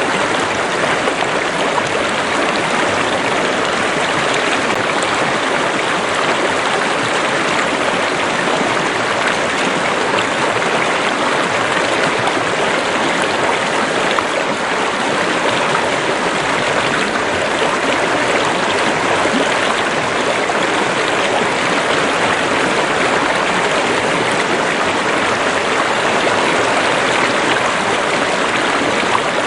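Stream or small river running: a steady, even rush of flowing water with no change over the stretch.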